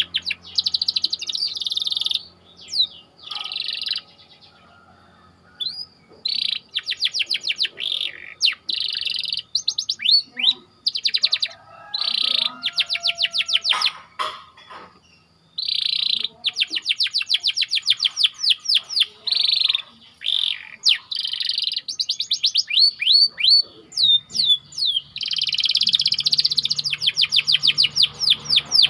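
Domestic canary singing in phrases of fast, tightly rolled trills and quick repeated chirps, with short pauses between phrases.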